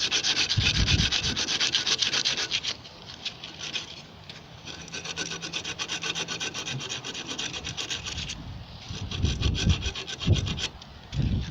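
Rapid back-and-forth abrasive scrubbing on the metal of a gas water heater's thermocouple, working the tarnish off to bring back bare metal. It is loudest in the first couple of seconds, softer in the middle, picks up again near the end, and has a few dull bumps from handling the part.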